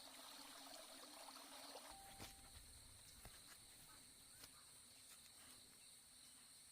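Near silence, with a faint, steady, high-pitched drone of insects in the background.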